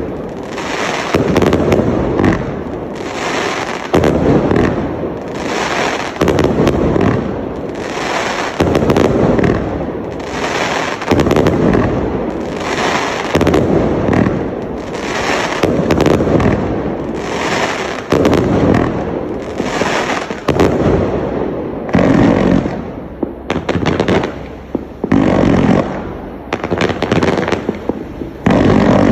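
Firework display cakes firing a rapid barrage: loud bangs about once a second, with quicker sharp cracks and crackle between them.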